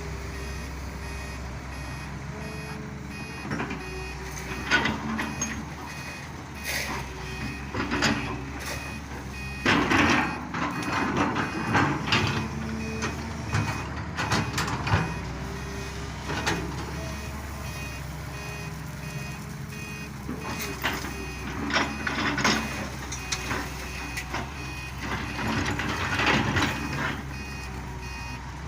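Heavy diesel machinery running steadily while a truck's reversing alarm beeps in an even repeating pattern. Irregular loud knocks and clatters come through at intervals, typical of rocks being dropped from an excavator bucket into a truck bed.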